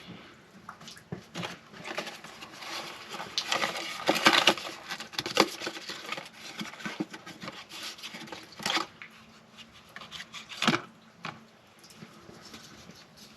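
Hands working on a distributor cap and rotor: scattered small clicks, scrapes and rustles of parts being handled, with a louder sharp click about nine seconds in and another near eleven.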